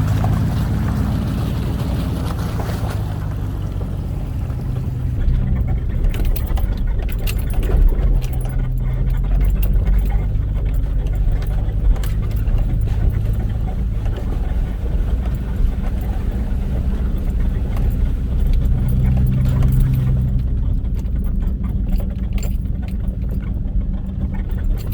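Off-road vehicle's engine running low and steady while crawling over a rocky trail, with frequent clicks, knocks and rattles from the body and gear jolting over the rocks. The sharpest knocks come about 8 and 12 seconds in.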